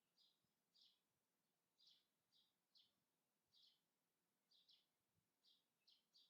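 Very faint bird chirping: short, high chirps repeated about twice a second at uneven intervals, over a faint hiss of outdoor background.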